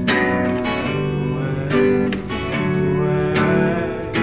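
Acoustic guitar strummed in steady chords, the strokes falling several times a second, in an instrumental gap between sung lines of a hymn.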